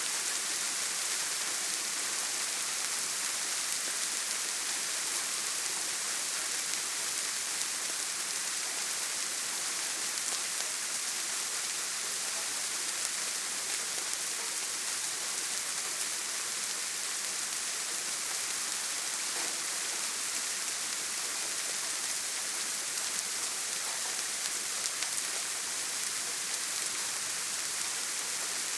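Steady rain drumming on a tin roof: an even hiss of countless drops that holds at one level throughout.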